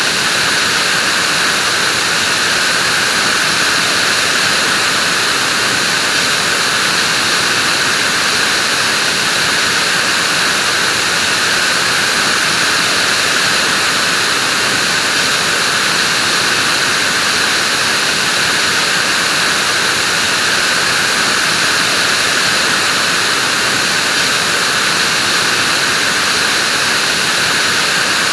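Vacuum cleaner running steadily: a constant, unchanging hiss with a high whine, no changes in speed.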